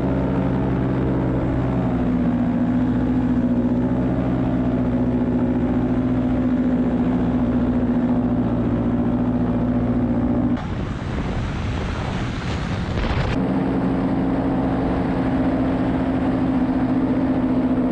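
Paramotor engine and propeller running at a steady pitch in flight. About ten seconds in, the engine drone gives way for roughly three seconds to a rushing noise like wind, then returns.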